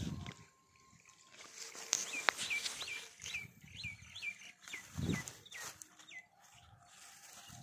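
A bird calling a quick series of about ten short, high, downward-sliding notes, roughly two a second, with a couple of sharp clicks and soft low thumps of the phone being handled.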